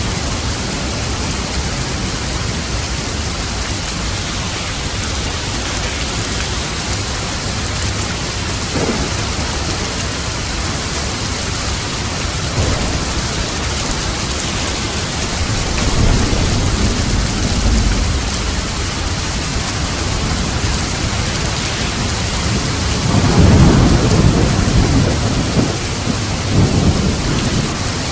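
Steady rain with rolling thunder: a low rumble swells about sixteen seconds in, and a louder, longer rumble comes near the end.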